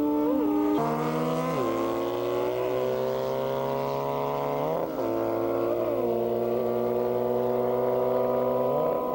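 Motorcycle engine running hard at high revs, its pitch sagging slowly and then jumping up sharply a few times.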